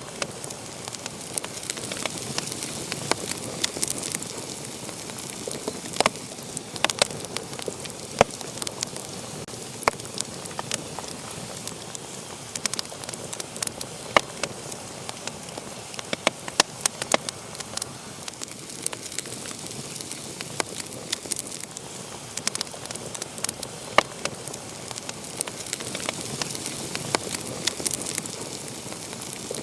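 Wood fire burning in a fireplace, with a steady hiss and frequent sharp, irregular crackles and pops.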